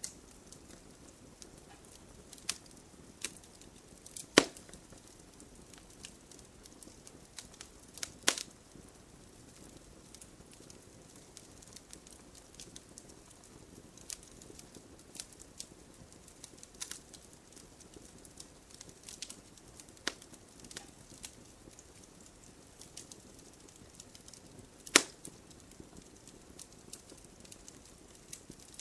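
Campfire crackling: scattered sharp snaps and clicks over a soft steady rustle of burning. Three louder pops stand out, about four seconds in, about eight seconds in and near the end.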